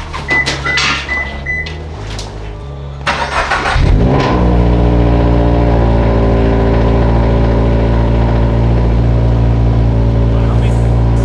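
A car engine cranks for under a second, catches about four seconds in with a brief rise in pitch, then idles steadily. Background music plays under the first few seconds.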